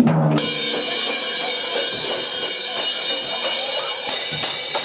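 Live rock band's drum kit, with crashing cymbals, in a dense, sustained wash of noise that starts abruptly about half a second in.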